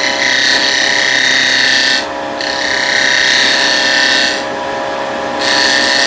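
Spindle gouge cutting into spinning wood on a Vicmarc VL300 lathe, rounding over a bird feeder's wing in three passes with short pauses between them, over the lathe motor's steady hum.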